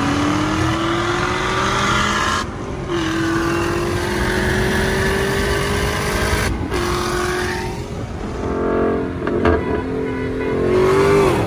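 Cars accelerating at full throttle in a roll race, heard from inside the cabin: first the 2020 Dodge Charger Hellcat's supercharged 6.2-litre V8, its pitch climbing steadily with two short breaks, about two and a half and six and a half seconds in. Near the end the sound is heard from the BMW 340i, and another engine climbs in pitch.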